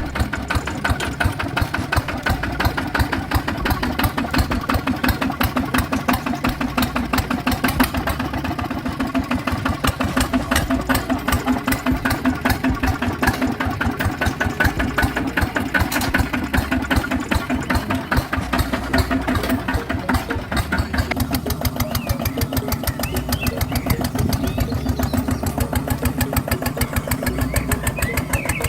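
Small engine running steadily with a fast, even putter, as on a mini tractor working in a rice field.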